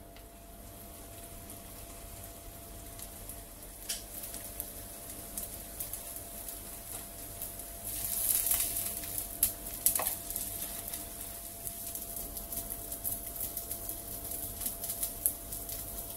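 Chicken patties sizzling and crackling in hot oil in a nonstick frying pan. The crackle builds up and is loudest about eight seconds in, when the patties are turned with a spatula, with a few sharp clicks.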